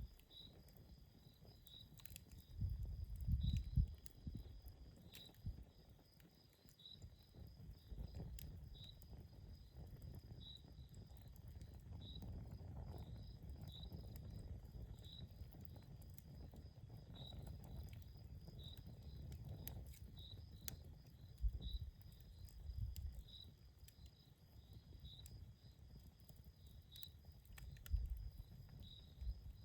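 Campfire crackling outdoors: scattered sharp pops over a low rumble that swells several times. A short high chirp repeats steadily about once a second.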